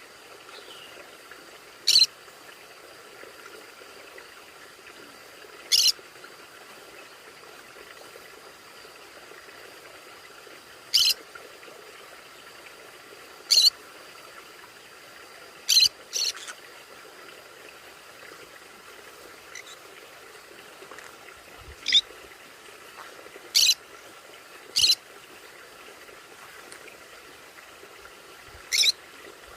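Conure parrot giving short, sharp high calls, about ten of them spaced irregularly a few seconds apart, over a faint steady background hum.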